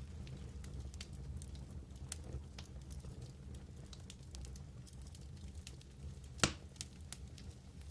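Fireplace fire crackling, with scattered small pops and one loud pop about six and a half seconds in, over a low steady rumble.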